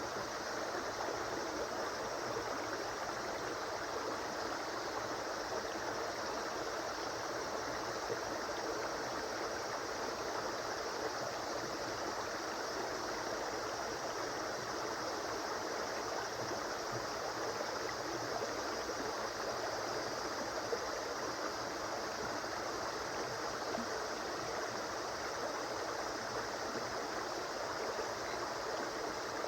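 River water flowing over rocks, a steady rushing and babbling that goes on without change.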